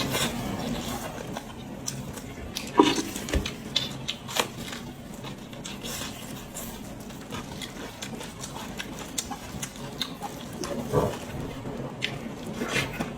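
Close-miked eating sounds from a pig's head: irregular chewing, biting and wet mouth clicks, with a few louder bites about three seconds in and again near eleven seconds.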